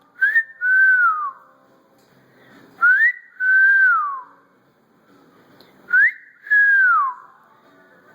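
Moluccan cockatoo whistling a two-note phrase three times, about three seconds apart: a short note sweeping upward, then a longer note that holds and slides down.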